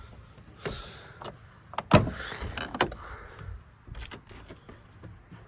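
A few sharp knocks and clicks, the loudest about two seconds in, over the steady high chirring of crickets.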